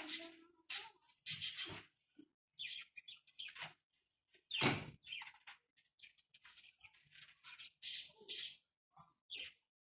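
Parrot giving short, irregular squawks and chatter, with one louder call about five seconds in.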